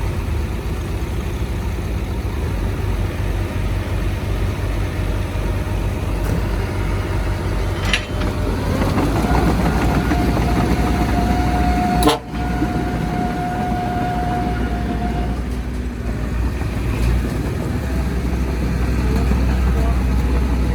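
Heavy diesel engines of bulldozers and a dump truck running under load in a steady low rumble. A single long, steady vehicle horn blast of about six seconds sounds near the middle, with a short sharp click shortly before it starts and another partway through.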